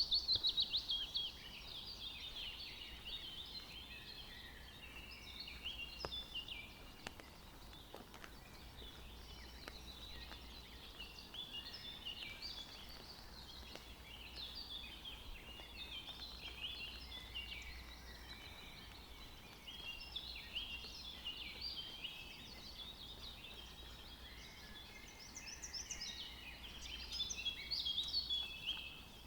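Forest birds singing: many overlapping chirps and trills, a busy dawn-chorus-like mix, loudest at the start and again near the end.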